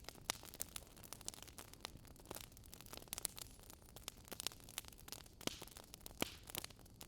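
Wood fire crackling: irregular sharp pops and snaps, a few a second, some louder than others, over a faint low hiss.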